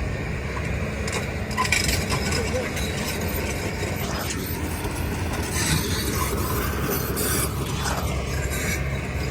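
Motorbike running over a rough, broken road, with a steady low engine and road rumble and irregular clattering rattles over it.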